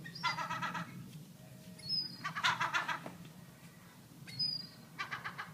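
Young seagull calling in three bouts of rapid, stuttering calls, near the start, about halfway through and near the end.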